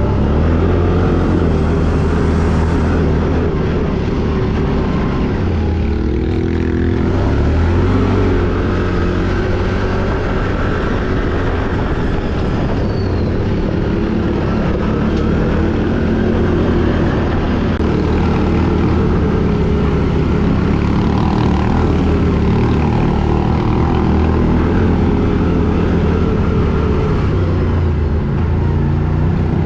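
ATV engine running steadily under way, its pitch dipping and rising again about six to seven seconds in.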